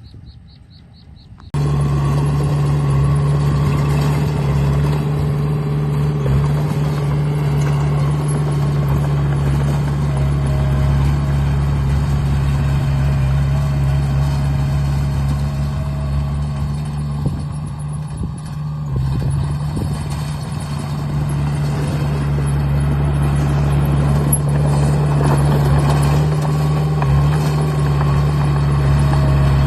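Heavy vehicle's diesel engine idling steadily, cutting in abruptly about a second and a half in.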